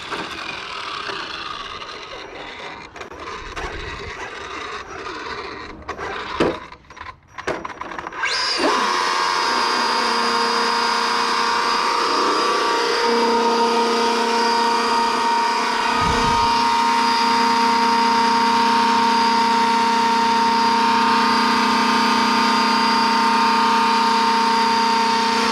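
A small electric motor running steadily with a whine from about eight seconds in, its pitch stepping up once a few seconds later. Before it there is uneven scraping and clicking.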